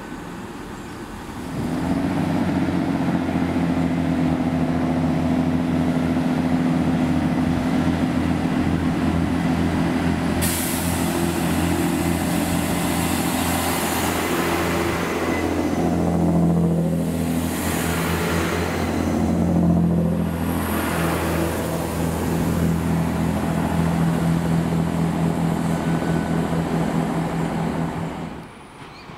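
Diesel train running past, its engine a steady drone, with rushing wheel and rail noise coming in about ten seconds in and swelling twice. The sound drops away abruptly near the end.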